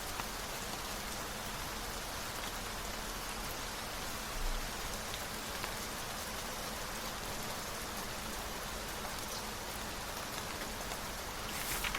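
Steady rain falling, an even hiss with scattered faint drop ticks. A brief rustle sounds just before the end.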